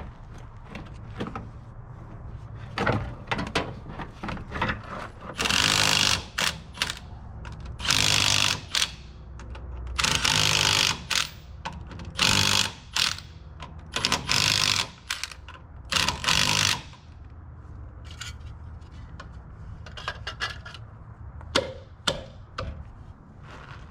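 Mechanical work on a truck: scattered clicks and clanks over a steady low rumble, with about six short, loud bursts of hissing in the middle.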